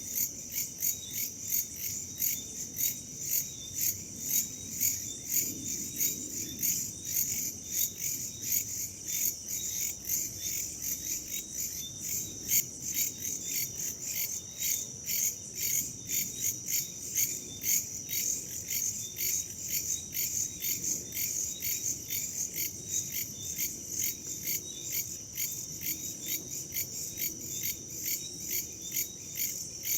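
Crickets and other night insects chirping in a dense, continuous chorus, a high steady trill pulsing evenly several times a second, over a faint low rush of background noise.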